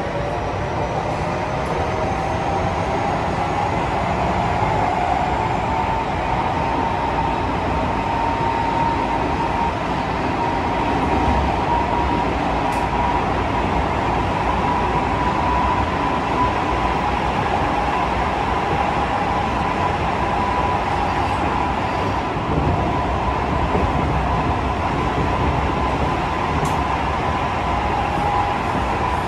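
Tokyo Metro 15000 series subway train running, with a constant rumble of wheels on rail. The traction motor whine rises in pitch over the first several seconds as the train gathers speed, then holds a steady tone while it cruises.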